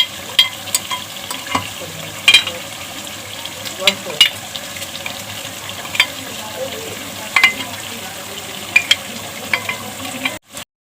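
Chicken masala frying in a karahi with a steady sizzle, while a spoon stirs it, scraping and knocking against the pan in sharp irregular clicks. The sound cuts off suddenly near the end.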